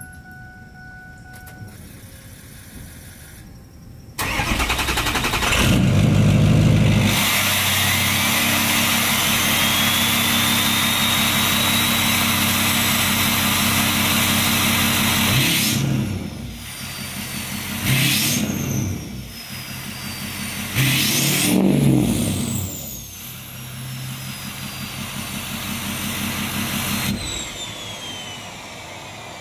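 Ford 6.0 Powerstroke V8 turbodiesel with an aftermarket exhaust starting about four seconds in and settling to an idle as a high turbo whistle rises. It is then revved three times, each rev followed by a falling turbo whistle, and shut off near the end.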